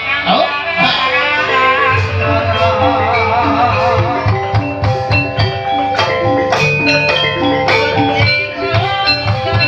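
Banyumasan ebeg accompaniment music: pitched metal or bamboo percussion playing repeated notes over steady drum strokes. A singer's wavering voice carries over it for the first few seconds.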